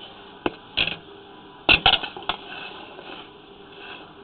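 About five sharp knocks and clicks over two seconds from handling the sewer inspection camera head while its muddy lens is wiped clean, over a steady hiss.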